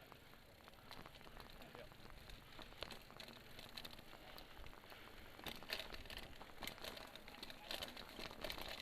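Element Spy 2.0 mountain bike rolling along a forest dirt trail: tyres crunching over the ground with a scatter of irregular clicks and rattles from the bike, getting busier past the halfway point.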